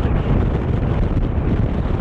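Strong mountain wind buffeting the camera microphone: a loud, steady rumbling noise, heaviest in the low end.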